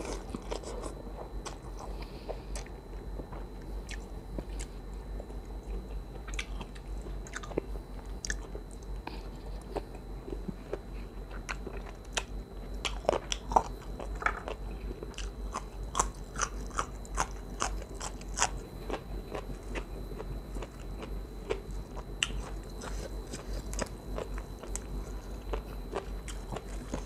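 Close-miked chewing of a mouthful of khanom jeen rice noodles in coconut curry: wet mouth smacks and small crunches at an irregular pace, busiest about midway through.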